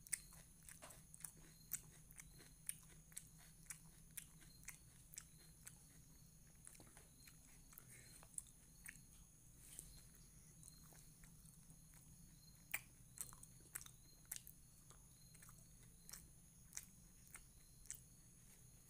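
Person chewing a mouthful of rice and raw onion close to the microphone: faint crunching and wet mouth clicks about twice a second, a little louder about two-thirds of the way through, over a faint steady electrical hum.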